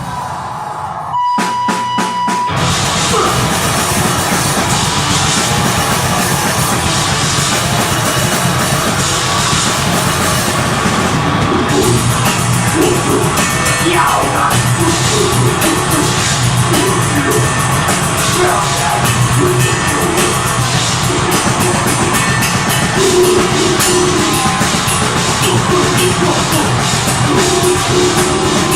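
A deathgrind band playing live and loud, with distorted guitars, bass and fast drumming. A single steady high tone sounds first, and the full band comes in about two and a half seconds in.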